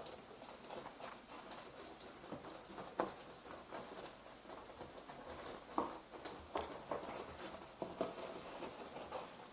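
An animal moving inside a kitchen ceiling: irregular scratching and light pattering, with a few sharper knocks.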